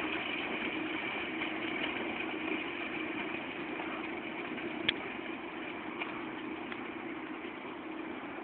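John Deere 6930 tractor's six-cylinder diesel engine running steadily, slowly growing fainter, with a single sharp click about five seconds in.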